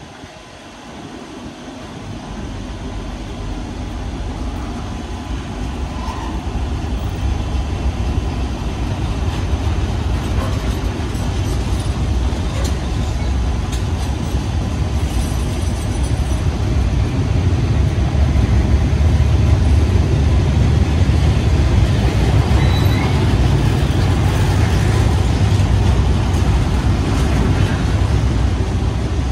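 Freight train of cereal hopper wagons rolling past at close range: a steady low rumble of wheels on rail, growing louder over the first half, with a few brief high wheel squeals.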